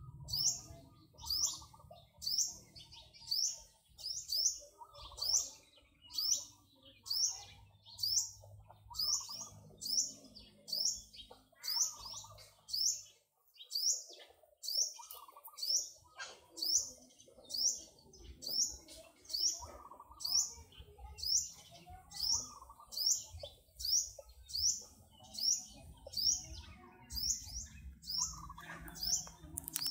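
A bird repeating one high, short chirp at an even pace, about one and a half times a second, with fainter, lower bird calls scattered between.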